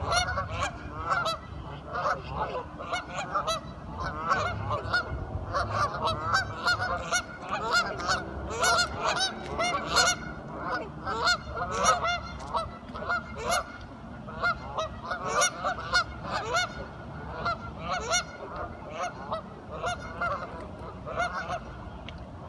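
A flock of ducks quacking, many short calls overlapping, busiest in the middle and thinning out near the end.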